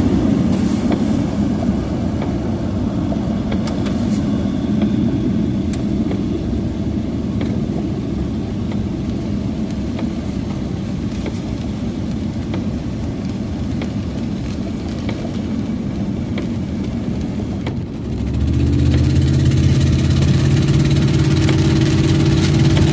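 Car engine and road noise heard from inside the vehicle while driving, a low, even rumble. About eighteen seconds in it changes to a steadier, slightly louder engine drone with a fixed pitch.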